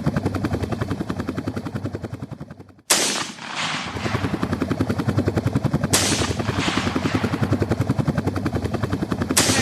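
Helicopter rotor chopping overhead, a fast, even beat of blade slaps. It fades out and stops abruptly about three seconds in, then comes back, with sudden bursts of hiss three times.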